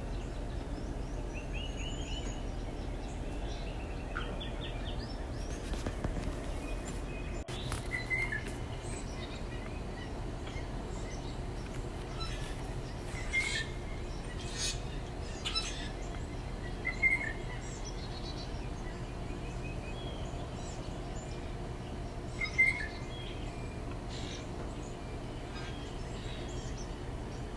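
Small backyard birds chirping and trilling, with several louder short calls standing out, over a steady low background hum.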